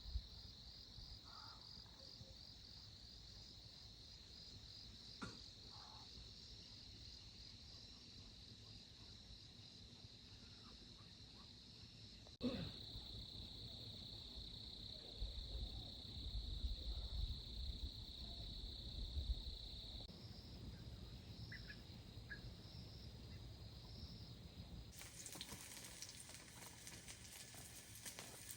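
Faint chorus of insects chirping steadily in a high, pulsing band. A steady hiss comes in near the end.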